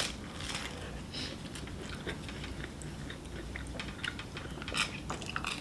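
Chewing a chicken nugget dipped in sweet and sour sauce: faint, irregular mouth clicks.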